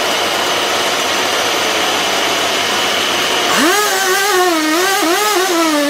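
Steady, loud machine noise of a running motor. About three and a half seconds in, a pitched tone joins that wavers up and down and stops near the end.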